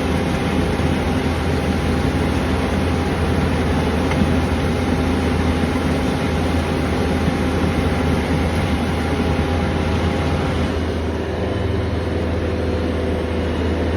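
Heavy diesel truck engine running steadily alongside machinery hum while the truck is being loaded; part of the hum changes pitch about eleven seconds in.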